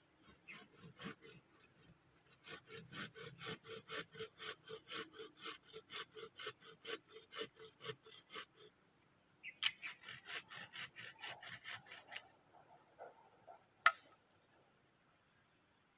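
Hand saw cutting wood in quick back-and-forth strokes, about three a second, which stop about twelve seconds in. Two sharp snaps, one about ten seconds in and one near the end.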